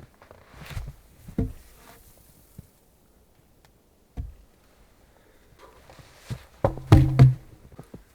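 Scattered knocks and thuds of objects being handled. The loudest is a cluster of knocks near the end with a brief hollow ring.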